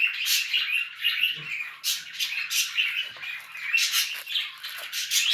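Small birds chirping, a continuous stream of short, high calls.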